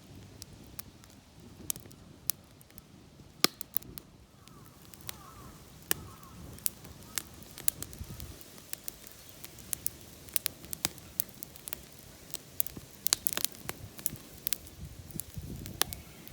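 Tree-root firewood burning hard in a Flame Stove MAX fire pit, crackling with irregular sharp pops of varying loudness over a low steady rumble; the loudest pops come about three and a half seconds in and again around thirteen seconds.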